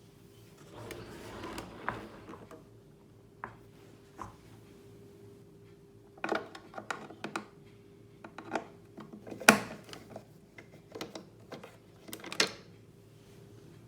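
Plastic parts of a vacuum cleaner's housing being handled and worked apart during disassembly: a rustling scrape, then a scatter of sharp clicks and knocks, the loudest about nine and a half seconds in.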